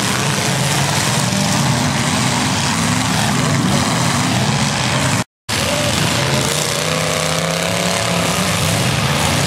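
Demolition derby cars' engines running loud and revving, the pitch rising and falling over a dense noise. The sound cuts out completely for a split second about five seconds in.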